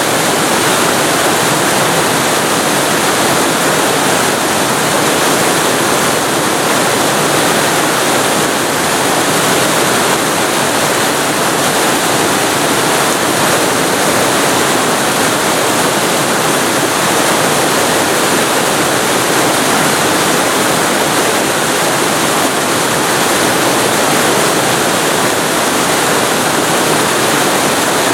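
Waterfall recorded very close to the falling water: a loud, steady rush of water.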